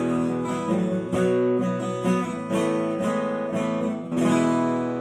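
Acoustic guitar strummed as the instrumental ending of a song. The last chord, about four seconds in, is left ringing and slowly fades.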